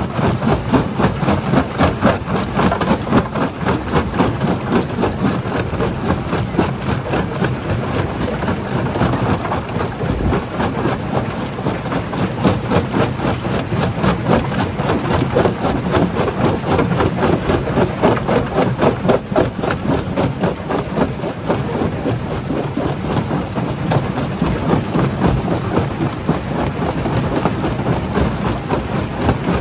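Primary jaw crusher running and crushing rock: a steady heavy machine drone with a dense, continuous clatter of rock.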